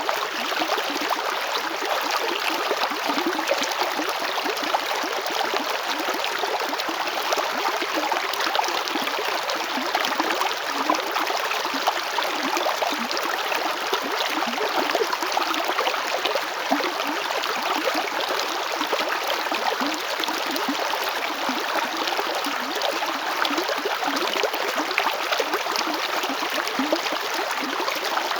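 River water flowing and babbling over stones, a steady rushing with many small gurgles and splashes.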